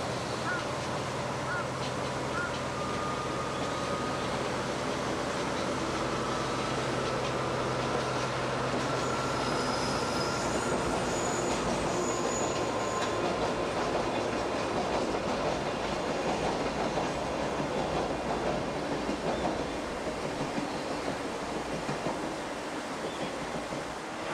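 Sagano Scenic Railway trolley train running along the line: steady rolling and rail noise with some clatter, and thin, high wheel squeals for a few seconds around the middle.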